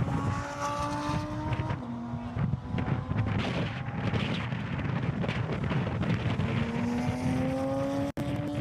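Race car engine accelerating hard on a track, its pitch climbing through a gear, dropping at an upshift about two seconds in, and climbing again near the end. The sound cuts out for an instant just before the end.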